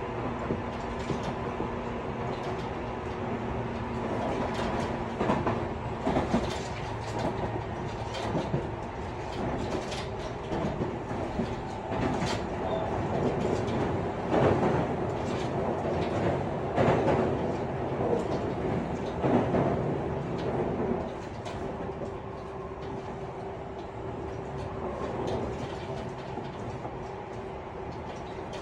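Tobu 50090 series electric train heard from inside the car while running between stations: a steady rumble with a few held motor tones, wheels clacking over rail joints, and rattling from the gangway bellows and connecting plates. It is louder in the middle and eases a little about three quarters of the way through.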